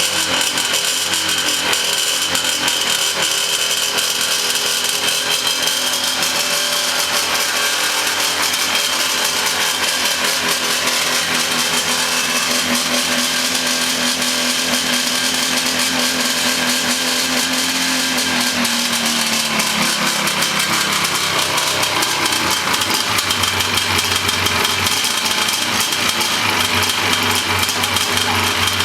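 Ski-doo Blizzard 5500 snowmobile's Rotax 503 two-stroke twin engine running steadily at a raised idle. About two-thirds of the way through, the revs fall and it settles into a lower, steady idle.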